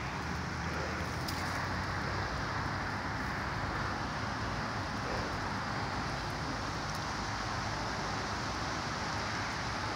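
Steady distant rumble of an approaching train, not yet close, with no rise or change through these seconds.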